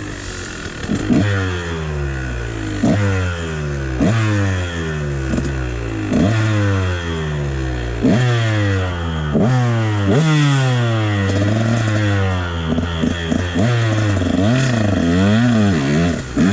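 KTM dirt bike engine revving over and over while being ridden: each rev climbs sharply and then falls away over about a second, and near the end the pitch wavers quickly up and down.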